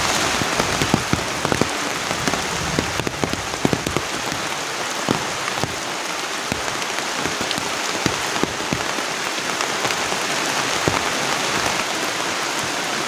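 Heavy rain falling steadily, a dense hiss with many separate drops striking close by, the strikes most frequent in the first few seconds.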